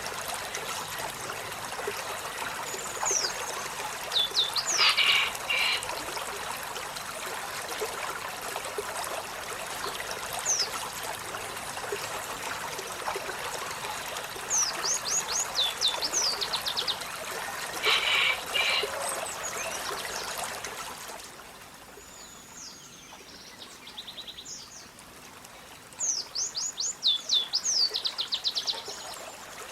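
Olive-backed sunbird singing: several bursts of quick, high, downward-sweeping notes, rapidly repeated. Behind it runs a steady rush like running water, which drops away abruptly about two-thirds of the way through.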